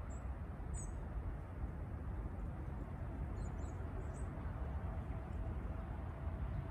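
Steady low outdoor rumble with a few short, high bird chirps scattered through it.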